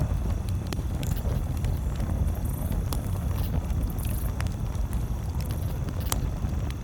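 Campfire crackling: scattered sharp pops and snaps, one every second or so, over a steady low rumble.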